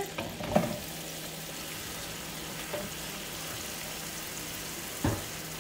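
Chunks of raw chicken breast sizzling steadily in hot oil in a wok, a constant frying hiss. Two brief soft knocks break in, one near the start and one near the end.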